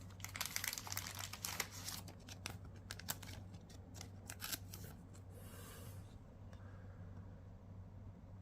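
Trading cards and crinkly booster-pack wrapper being handled: rapid rustling and crinkling with small clicks, dying away about five seconds in after one last brief rustle.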